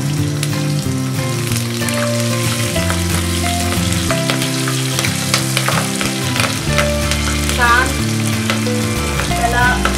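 Green chilies and a bay leaf sizzling and crackling in hot oil and ghee in an earthen pot, with many small sharp pops, while a wooden spatula stirs them. Soft background music runs underneath.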